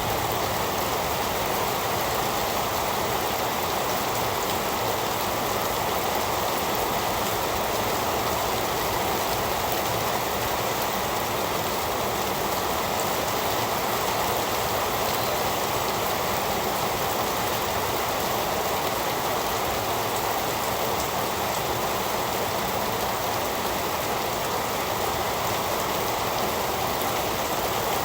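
Heavy rain falling steadily, an even continuous hiss of rain on surfaces.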